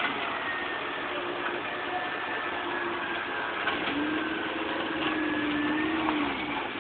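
Off-road 4x4's engine pulling under load as it crawls up out of a muddy hollow. Its note comes up about four seconds in, holds steady, then drops away near the end.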